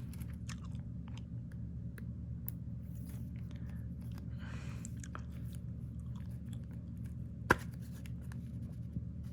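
Trading cards being handled: light clicks and a soft rustle, with one sharp click about seven and a half seconds in, over a steady low hum.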